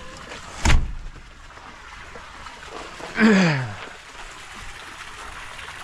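A single sharp knock about a second in, then a short call or creak that falls in pitch about three seconds in, over a steady background hiss.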